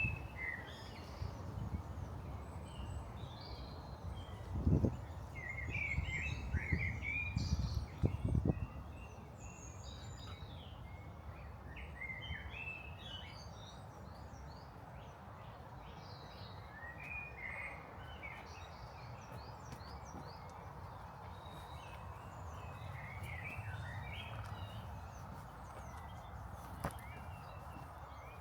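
Small birds chirping and singing in short phrases throughout, over a steady low outdoor rumble, with a few dull low thumps in the first third.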